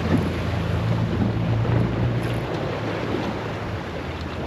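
Boat motor humming steadily under wind buffeting the microphone and the wash of open water; the motor's hum drops away about two and a half seconds in.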